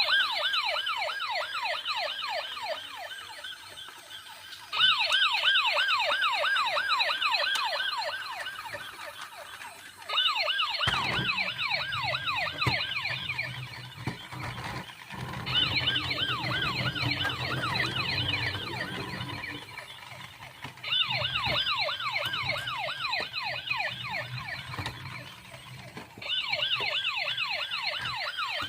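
Toy police car's electronic siren warbling fast, about three sweeps a second. It starts afresh about every five seconds and fades away between starts.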